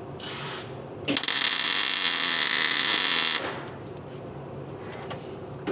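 Welder laying a tack weld on the hood hinge bracket: a brief burst of arc noise, then a steady hiss starting about a second in and lasting a little over two seconds. A low steady hum runs underneath.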